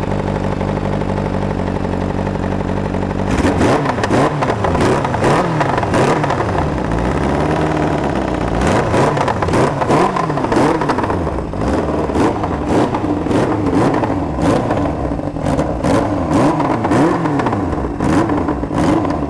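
Kawasaki 750 engine in a 2002 Polaris ATV idling steadily, then revved up and down over and over in quick blips from about three seconds in.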